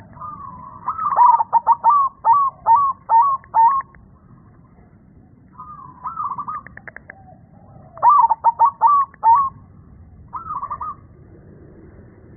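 Zebra dove (perkutut) cooing in rapid strings of short notes: four phrases, the first the longest and a short one near the end. Its voice is deep, the 'bass' tone keepers prize in this bird.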